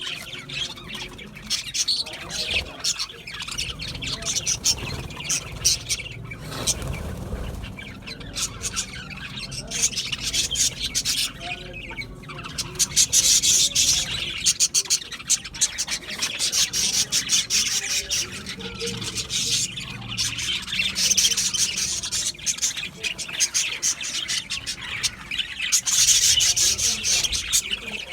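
Budgerigars chattering and chirping continuously in quick, high trills and squawks, growing louder in several spells.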